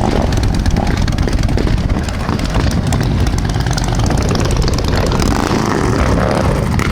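Motorcycle engines running with a loud, steady, low rumble.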